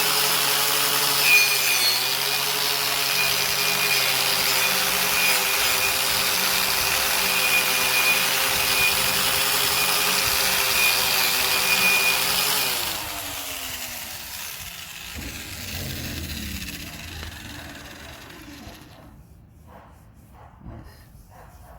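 Handheld power tool scouring rust off a steel leaf spring: a steady motor whine under a harsh grinding scrape. About 13 seconds in, it is switched off and winds down, falling in pitch, followed by a few faint knocks.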